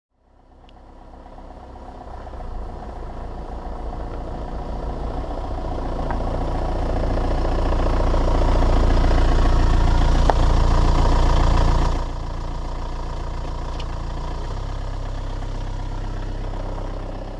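Renault Scénic's engine running close to the microphone. It fades in and grows louder, drops abruptly about twelve seconds in, then holds steady before fading out near the end.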